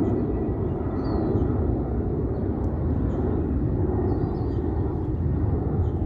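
Boeing 757-351 airliner's jet engines giving a steady, deep rumble during its climb-out, with a few small bird chirps over it.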